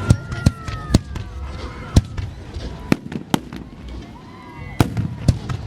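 Fireworks exploding overhead: about eight sharp bangs at uneven intervals, some close together, over a low rumble.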